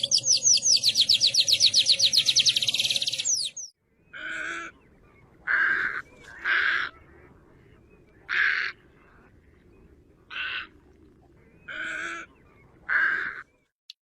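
Birdsong from two different songbirds. First comes a fast, high trill of about ten evenly repeated notes a second, which stops about three and a half seconds in. After a short break comes a series of eight short, lower, single calls spaced a second or so apart.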